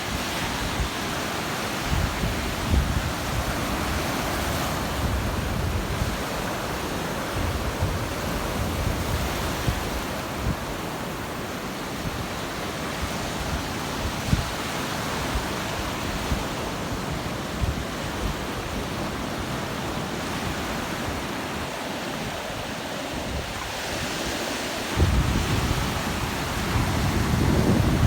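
Gulf surf washing steadily onto the beach, with wind buffeting the microphone in low rumbling gusts that grow stronger near the end.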